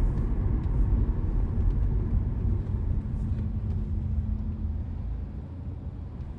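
A car driving, with a steady low rumble of tyre and engine noise. It eases off over the second half of the stretch.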